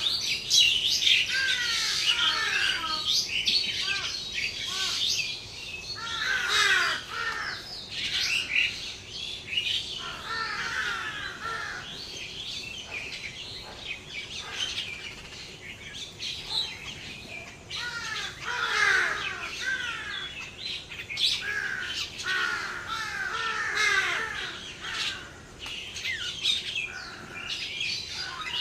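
A flock of birds calling together: a dense chatter of short, falling chirps and squawks that swells and eases in waves.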